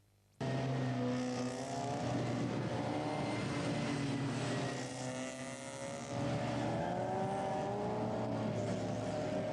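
Fiat Uno race car engine revving as it is driven around a cone course, its pitch swinging up and down with the throttle; the sound cuts in about half a second in after a moment of silence, dips slightly near the middle, then climbs and falls again.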